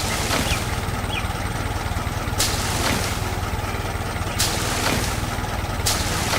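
Vehicle engine running steadily with a low rumble, broken by three short bursts of hiss.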